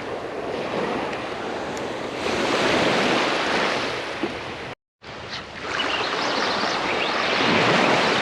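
Small waves washing in and out on a shallow beach, the noise swelling and easing, with wind on the microphone. The sound cuts out for an instant a little past halfway.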